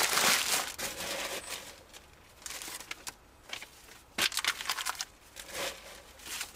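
Crinkling, crumpling handling noise with short, irregular crackles. It is loudest at the start and comes again in a cluster about four seconds in, as material is handled for lighting the oven fire.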